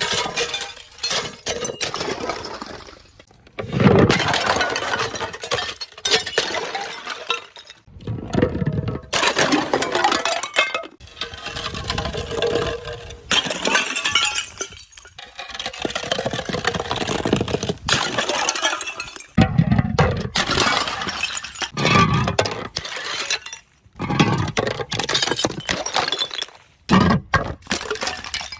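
Glass bottles shattering one after another, each sudden break followed by the clinking and tinkling of shards, with short gaps between breaks.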